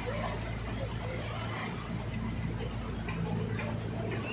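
Express passenger boat's engine running steadily, a constant low hum under a wash of water and wind noise, heard from on board.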